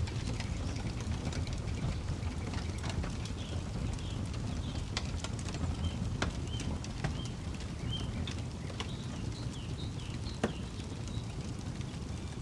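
Campfire crackling with scattered sharp pops, one louder snap near the end, over a steady low rumble. A bird calls through the middle with a run of short, high chirps.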